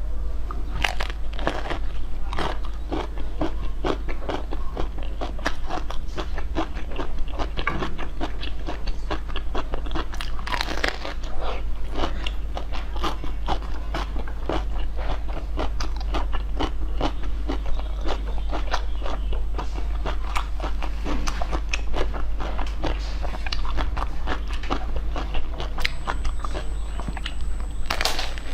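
Close-miked ASMR eating: a steady run of crunching bites and chewing of hard, frozen treats, dense irregular cracks throughout, over a steady low hum.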